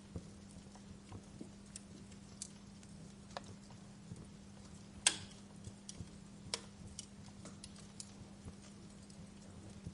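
Wood fire burning in a fireplace, crackling with irregular sharp pops, the loudest about five seconds in, over a steady low hum.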